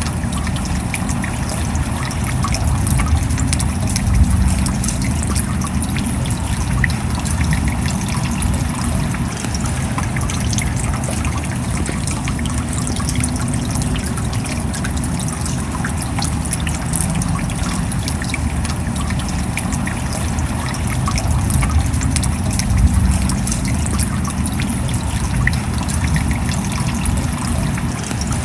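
Steady rain with trickling water: dense small drop ticks over an even hiss and a low rumble.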